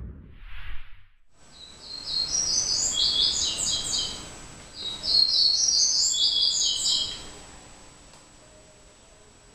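Small birds chirping and twittering in two quick runs of a couple of seconds each, over a steady background hiss.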